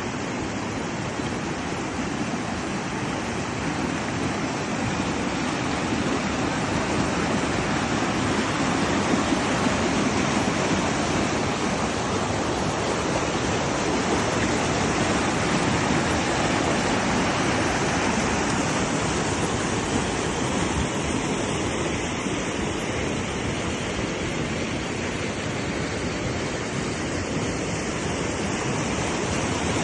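Steady rush of flowing water, like a fast stream or small cascade.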